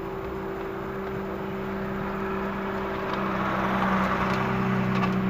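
VW Golf V GTI's turbocharged four-cylinder engine running at low revs inside the cabin while the car creeps along at walking pace, a steady hum. A louder noise builds about three seconds in and holds toward the end.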